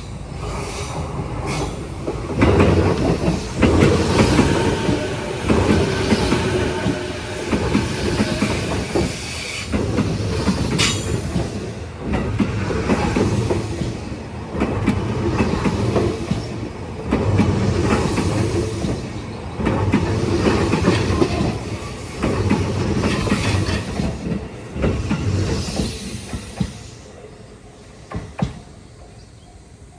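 An electric commuter train passing a level crossing. Its wheels clatter over the rail joints in regular loud surges about every two seconds, then the sound fades away near the end.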